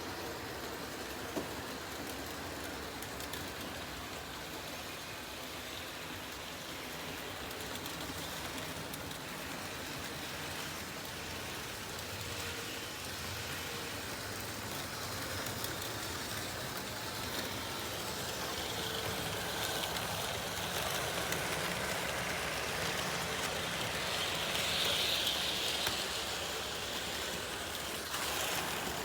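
Märklin HO scale model train running along the track: a steady whirring rattle of the small motor and wheels on the rails, growing louder over the second half and loudest a few seconds before the end.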